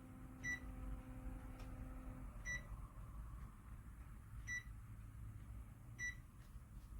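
Four short, high electronic beeps about two seconds apart from a Panasonic air conditioner, the indoor unit acknowledging signals from a remote control. A faint low hum stops about two seconds in.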